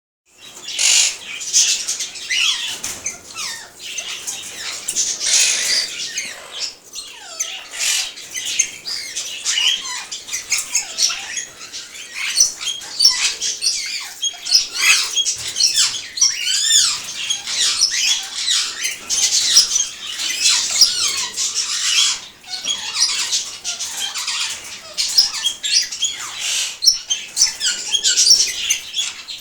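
Aviary birds chirping and chattering without pause: a dense stream of short, high calls that slide up and down in pitch.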